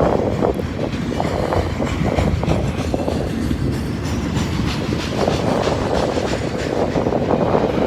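Freight train cars rolling past on the rails, a steady rumble with wheels clicking over the rail joints.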